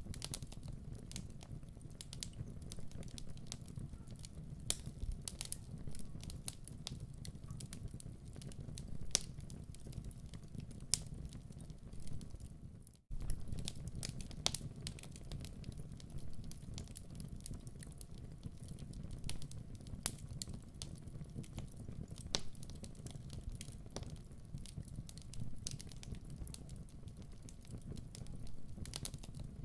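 Log fire crackling in a fireplace, with frequent irregular sharp pops and snaps over a steady low rumble. The sound cuts out completely for an instant about thirteen seconds in.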